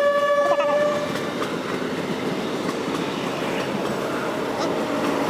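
A train horn sounds one held note that stops about a second in. A passing train's steady rumble and wheel clatter follow.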